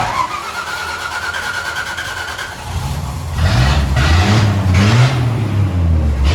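1981 Dodge D150 pickup's engine being started on the choke: the starter cranks with a steady whine for about two and a half seconds, then the engine catches and is revved up and down.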